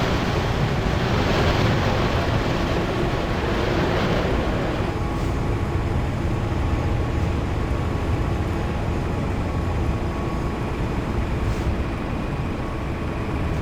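Airbus A330-900neo airliner heard from inside the cabin while taxiing: a steady low rumble with a rushing hiss. The hiss eases about five seconds in, leaving a few faint steady hums under the rumble.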